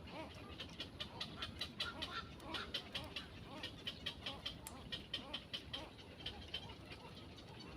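Birds chirping: a rapid run of short, high chirps, several a second, with softer, lower calls underneath.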